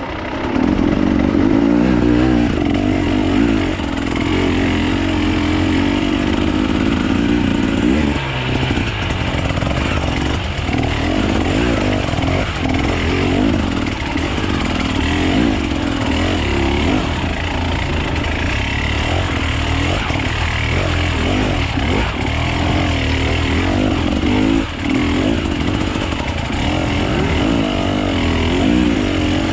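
Off-road enduro motorcycle engine running under way, its pitch rising and falling without a break as the throttle is worked.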